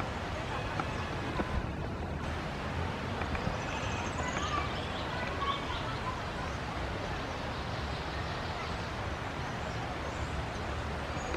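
Steady background noise with a low rumble, and a few faint, short, high bird chirps about three to five seconds in.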